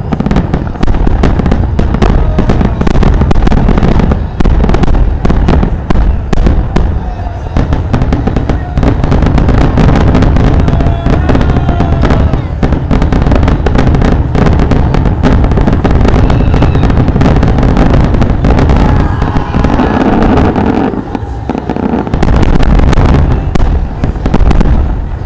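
A fireworks barrage: shells bursting in rapid, overlapping succession, many reports a second, over a continuous low rumble.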